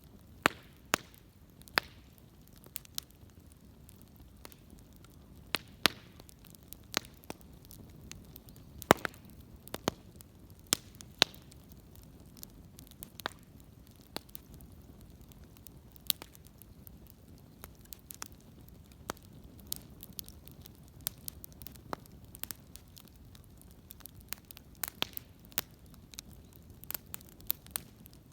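Wood fire crackling, with sharp pops at irregular intervals over a faint steady background.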